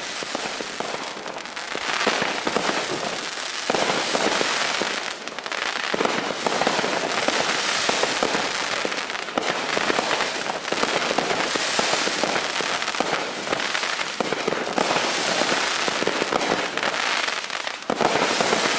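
Consumer aerial finale cake firing its 90 shots: a dense, continuous run of shots and crackling that swells in waves, with a brief break just before the end.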